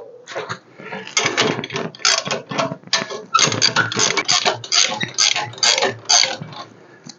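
Rapid mechanical clicking in uneven runs of several clicks a second, like a ratchet being worked during the engine lift.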